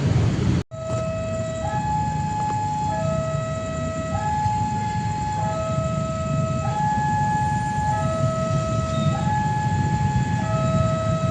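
Two-tone electronic warning alarm alternating steadily between a lower and a higher note, each held for a little over a second, over a low engine rumble. The sound starts just after a brief break in the audio.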